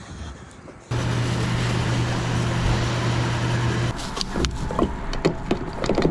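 A steady vehicle hum that starts suddenly about a second in and drops away near the middle, followed by a run of sharp clicks and knocks.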